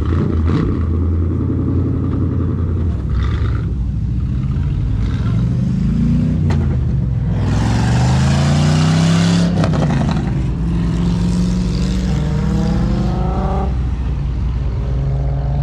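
Car engines running and revving. About halfway through, one car accelerates hard: its engine note climbs with a loud rush of noise that cuts off suddenly. Engines then settle back to a steady note and rise briefly again near the end.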